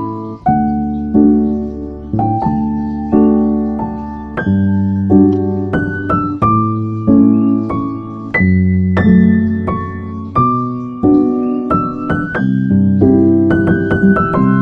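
Piano music: chords and melody notes struck about once or twice a second, each fading before the next.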